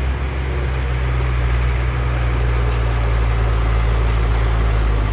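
Diesel engine of heavy earthmoving machinery running steadily under constant load, a low unbroken hum with no changes in pitch.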